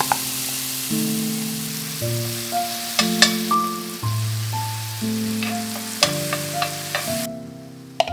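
Grated zucchini and onion sizzling in oil in a cast-iron skillet, with a metal spoon clicking and scraping against the pan several times. The sizzle cuts off suddenly about seven seconds in. Background music with held notes plays throughout.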